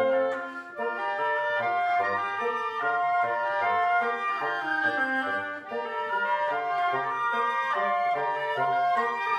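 Woodwind quintet of flute, oboe, clarinet, horn and bassoon playing classical chamber music live, several lines moving together in quick, short notes.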